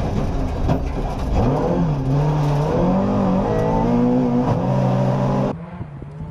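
Volvo 240 rally car's engine heard from inside the cabin, revving hard and changing gear several times. A little over five seconds in, it cuts to the car heard from the roadside, quieter, as it approaches.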